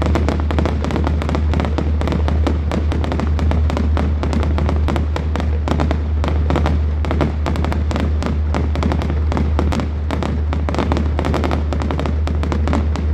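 Fireworks display: a dense, unbroken run of crackles and bangs over a steady low hum.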